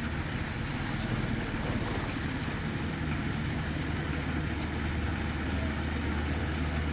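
Rice combine harvester's engine running steadily, a constant low drone with machinery noise over it.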